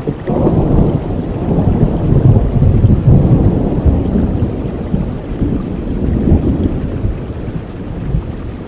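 Steady rain with a long roll of thunder that swells in the first few seconds and slowly dies away near the end.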